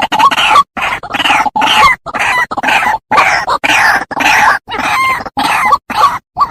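White-breasted waterhen (ruak-ruak) calling: loud, harsh croaking notes repeated two to three times a second, the call used as a lure to draw the birds in.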